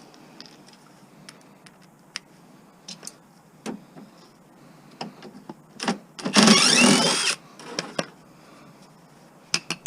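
Scattered clicks and knocks of tools working on the mower's metal, then about six seconds in a cordless drill with a socket runs for about a second on a bolt, its motor pitch rising.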